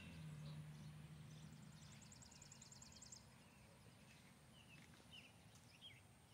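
Near silence outdoors with faint, short high bird chirps and a faint rapid high trill.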